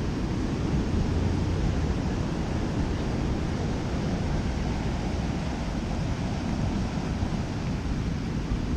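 Storm surf and wind buffeting the microphone: a steady, unbroken noise heavy in the low end.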